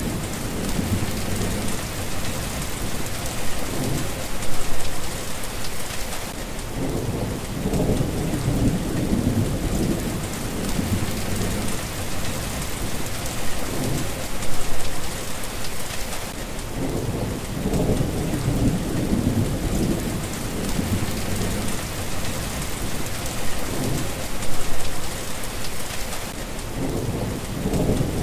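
Steady rain hissing, with low rolling rumbles of distant thunder swelling up every few seconds.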